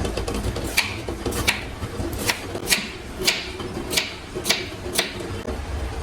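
A series of short rasping or scraping strokes, about eight of them, roughly one every half second, over a steady low hum.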